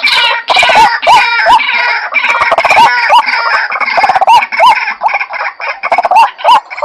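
White-breasted waterhens calling: a fast, steady run of short hooked notes, about three a second, layered with harsher overlapping croaking calls.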